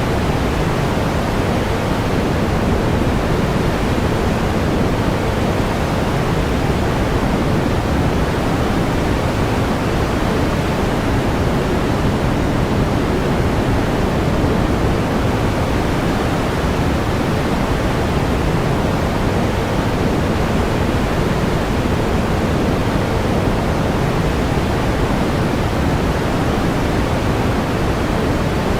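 Steady pink noise: an even, unchanging hiss, fuller in the low end and softer in the highs.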